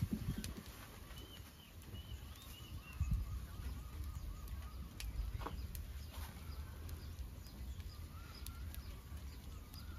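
Quiet outdoor ambience with faint, wavering bird calls at several points and a few soft scattered clicks over a low rumble.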